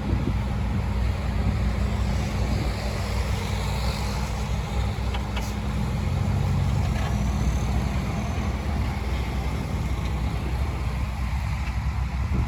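Heavy diesel engine of earthmoving machinery running steadily, with a low engine hum under a continuous mechanical noise.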